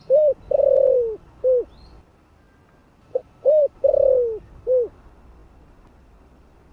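Spotted dove cooing its calling song: two phrases about three seconds apart, each a short coo, a rising-and-falling coo, a long falling coo and a final short coo. Faint high chirps of a small bird sound between them.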